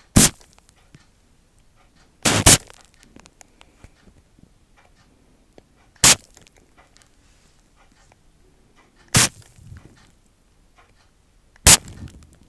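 Sharp, short clicks or snaps, five of them a few seconds apart, the second one a quick double, with faint small clicks and handling noise between them.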